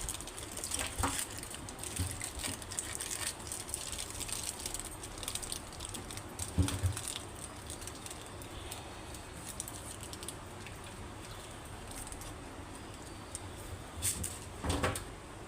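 Light crinkling of aluminium foil and scattered small knocks as sausage mixture is shaped and wrapped by hand, with one louder thump about six and a half seconds in and a few more knocks near the end.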